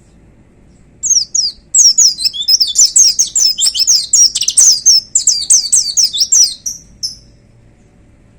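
White-eye (pleci) singing a fast, high song of short swooping notes in quick succession, starting about a second in and stopping about a second before the end.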